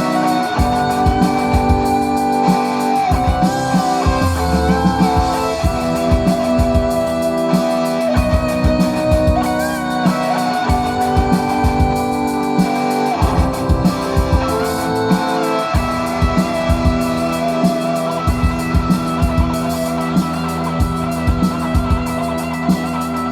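Live rock band playing an instrumental passage: a guitar carries a melody of held, wavering notes over chords, bass and a steady drum beat.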